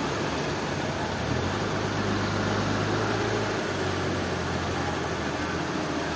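Machinery engine running steadily, a low hum over a constant hiss, with the hum shifting slightly in pitch a couple of times.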